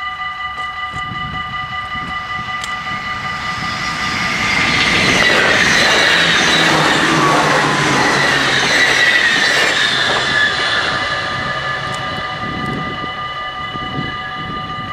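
Automatic level-crossing bells ringing steadily while an NS electric passenger train passes. The train's rumble and wheel noise swell from about four seconds in, peak mid-way with a falling whine, and fade by about eleven seconds as the bells ring on.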